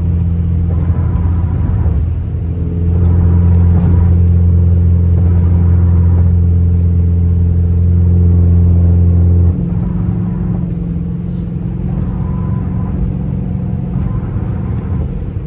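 Car exhaust drone heard from inside the cabin while driving: a loud, steady low hum that grows louder about two and a half seconds in and drops away suddenly about nine and a half seconds in, leaving quieter engine and road noise.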